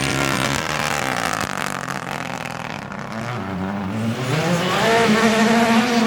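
Rally car engine at full throttle on a gravel stage: the pitch falls away over the first few seconds, then climbs again about three and a half seconds in and holds high near the end.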